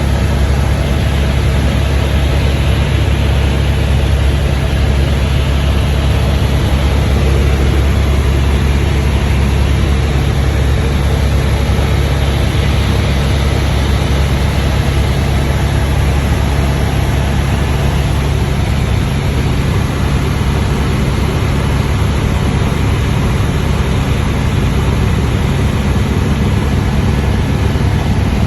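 Steady drone of a helicopter's engine and rotor, loud, with a deep hum and unchanging throughout.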